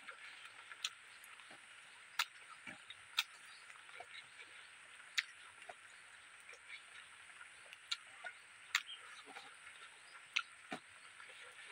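Faint eating sounds from close up: chewing of rice and fish with scattered short, irregular mouth clicks and lip smacks, roughly one every second or so.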